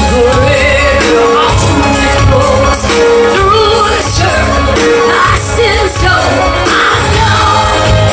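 A rock band playing a country-rock song with a steady beat, a woman singing the lead vocal over it.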